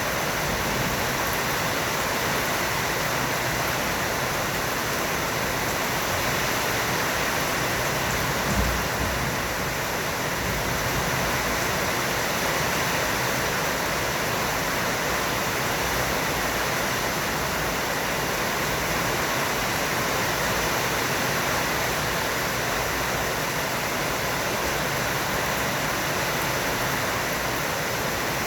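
Heavy rain falling as a steady, dense hiss, with one brief low thump about a third of the way through.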